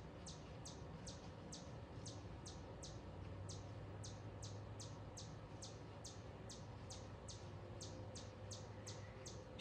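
A small bird calling in a steady series of short, high chirps, about three a second, each a quick downward sweep. A faint low hum comes in about two seconds in.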